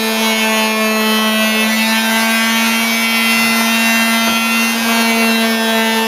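Electric quarter-sheet palm sander with 220-grit paper running steadily, a loud even hum, sanding the back of a thin scroll-sawn wooden piece to take off the fuzzy fibres left by a dulling blade.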